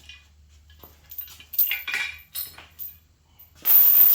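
Metal tools clinking as they are handled and set down, a series of short sharp clinks, then a louder metallic clatter lasting under a second near the end.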